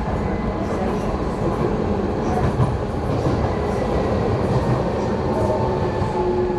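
Docklands Light Railway train running along the track, heard from inside its front end: a steady rumble of wheels on rail with faint whining tones, a little stronger near the end.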